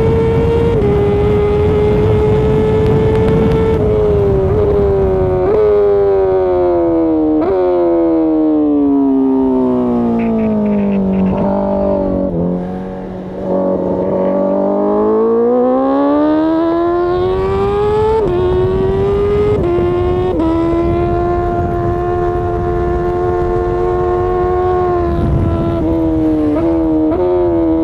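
Honda CBR1000RR-R Fireblade's inline-four engine under way through an Akrapovič exhaust: the revs drop in steps through several gear changes, sink to a low point about twelve seconds in, then climb smoothly, with more gear changes and a stretch of fairly steady revs after that.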